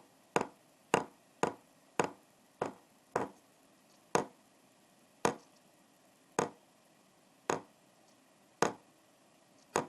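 A slowing series of sharp percussive strikes: about two a second at first, easing to about one a second after three seconds.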